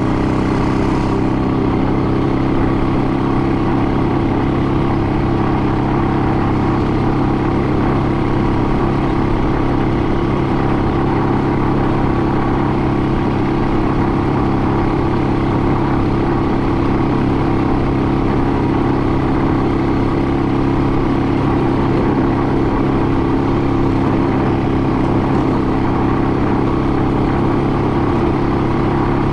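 An engine running steadily at a constant speed, an even hum that holds the same pitch throughout.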